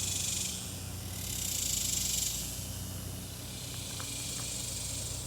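Cicadas buzzing in chorus, a high rattling drone that swells and fades in slow waves, over a low steady hum.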